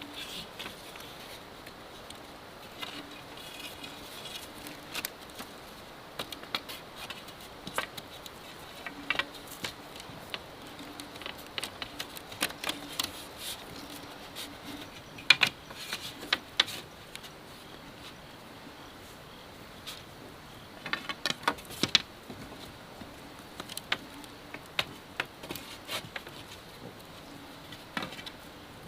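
Irregular light knocks and clicks of bamboo being handled and worked, a few sharper ones standing out. An insect buzzes faintly on and off.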